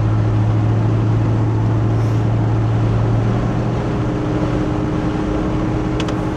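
1983 Chevy C10 pickup's engine and exhaust droning steadily as the truck cruises, with road noise underneath.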